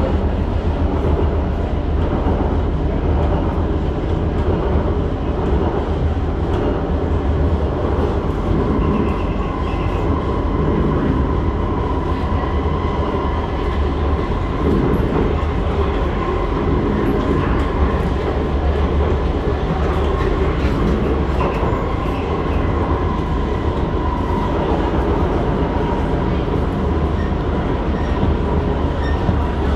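SMRT C151 train heard from inside the car, running between stations: a steady rumble of wheels on rail and car-body noise. A faint steady whine from the permanent-magnet synchronous traction motors comes in about a third of the way through and fades out some seconds before the end.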